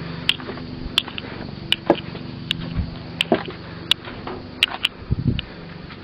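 Scattered sharp clicks and knocks, about two a second and irregular, over a steady low hum.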